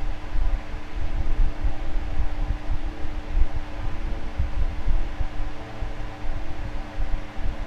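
Electric fan running steadily: a constant motor hum over a wash of air noise, with an uneven low rumble of moving air.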